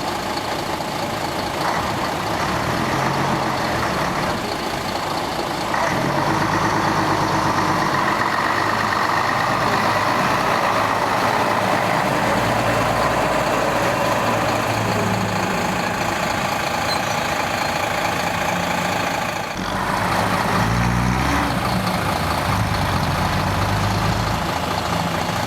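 Scania Vabis BF56 bus's diesel engine running, its note shifting up and down several times. It dips briefly about twenty seconds in, then picks up again.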